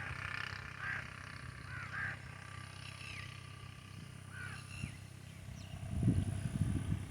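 Animal calls: a series of short chirping calls, then a loud, low, rough sound starting about six seconds in.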